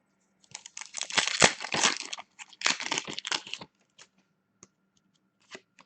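Foil trading-card pack wrapper being torn open and crinkled in the hands, in two crackling bursts, followed by a few light clicks of cards being handled.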